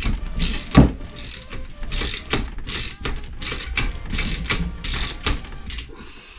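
Ratchet wrench clicking in a run of repeated strokes, about two to three a second, as it turns a shock spring compressor down to compress a motorcycle rear-shock spring.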